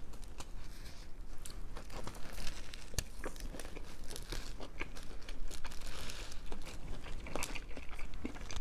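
Close-miked biting into and chewing a vegan patty burger with lettuce: irregular crisp crunches and small wet mouth clicks.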